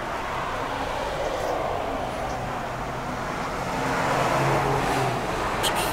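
Road traffic noise, swelling as a car passes about four seconds in, with a few faint clicks near the end.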